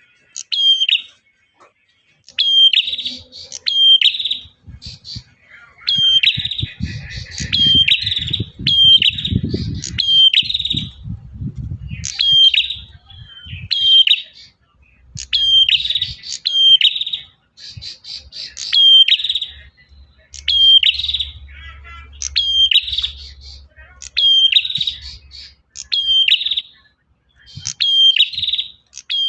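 Male prenjak (prinia) singing loudly: rapid runs of sharp, high, clipped notes repeated in bursts with short pauses between them. A low rumbling noise sits under the song for a few seconds early on.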